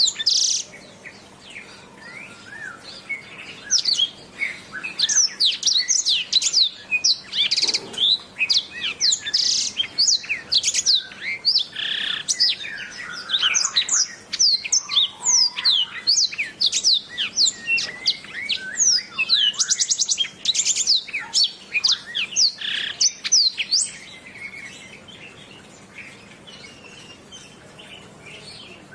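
Canary singing a fast, varied song of short sweeping chirps, whistles and rapid trills, growing softer and sparser about five seconds before the end.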